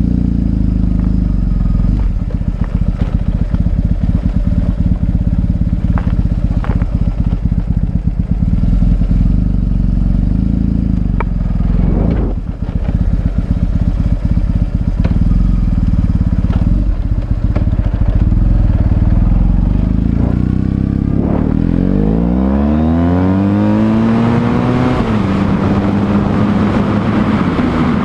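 BMW R1100S boxer-twin motorcycle engine running at a steady cruise, with a brief drop in revs about twelve seconds in. Near the end the revs climb steadily as the bike accelerates, then hold at a higher, steady note.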